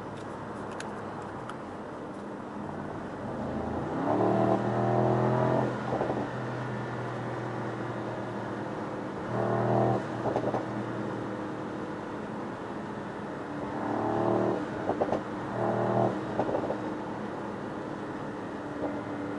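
Mercedes-AMG SL 63's twin-turbo V8 and tyre and road noise, heard from inside the cabin at motorway speed. The engine note swells louder three times, about four, ten and fifteen seconds in, as the car accelerates.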